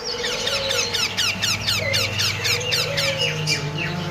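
Parrot chicks calling: a rapid, unbroken run of short, high squeaks, each falling in pitch, several a second.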